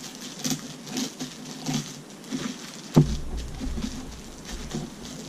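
Graham cracker being crushed into crumbs inside a bag under the heel of a hand: irregular crinkling and crunching, with one sharp knock about three seconds in.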